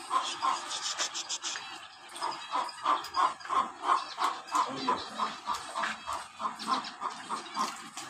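A bird calling in a steady series of short, evenly spaced chirps, about three or four a second.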